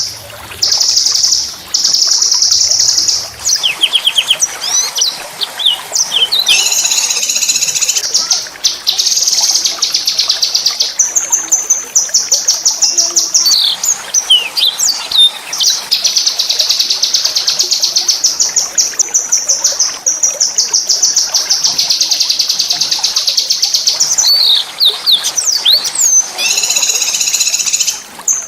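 A small songbird singing loud, high, fast trills: long runs of rapidly repeated notes, broken by short sweeping whistles.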